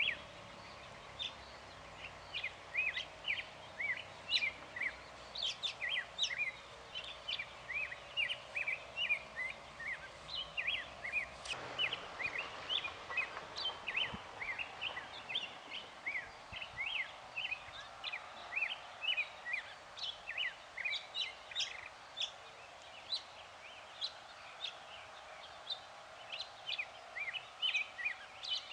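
Birds chirping continuously, many short high chirps several a second, over a faint steady background noise.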